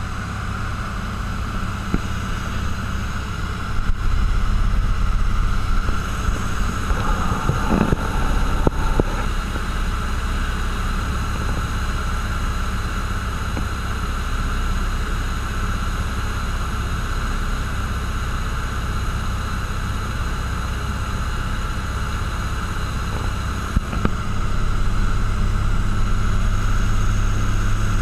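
Cessna 172's piston engine and propeller droning steadily, as heard inside the cabin in flight, with wind noise. The drone gets louder about four seconds in, eases back, and rises again near the end.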